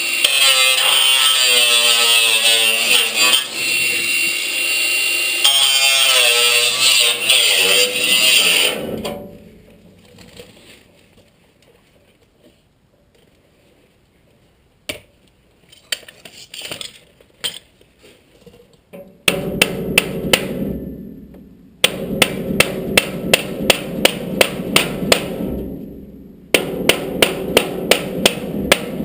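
A power tool whines loudly, its pitch wavering, for about nine seconds and then stops. After a quiet spell with a few light taps, a hammer beats rapidly on sheet metal in two runs of several strikes a second, shaping a steel repair panel.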